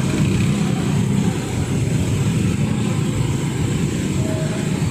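Steady, loud low rumble of heavy engines running.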